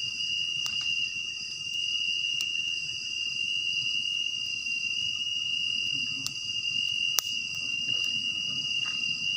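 Night insects, crickets or similar, trilling in a steady high-pitched chorus, with a few sharp clicks, the loudest about seven seconds in.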